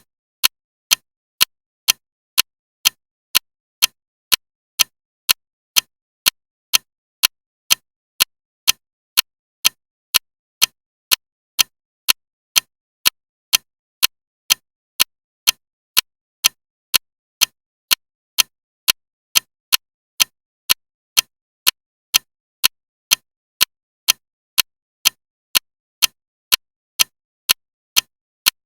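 Clock ticking loudly and steadily, about two sharp ticks a second with silence between them.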